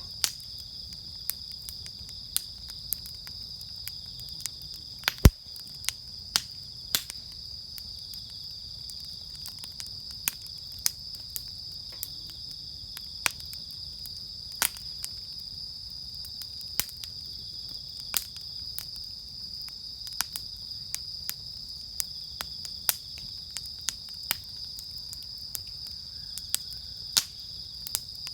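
Bonfire wood crackling, with sharp irregular pops and snaps, the loudest about five seconds in. Behind it runs a steady, high-pitched chirring of insects.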